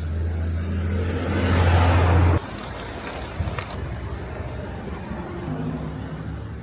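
A road vehicle's engine running close by, growing louder with rising tyre and engine noise, then cut off abruptly about two and a half seconds in. Quieter street ambience follows.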